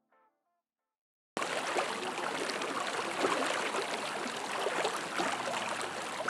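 Flowing river water in flood, a steady dense rush with small splashes and gurgles, cutting in abruptly about a second in after a brief silence.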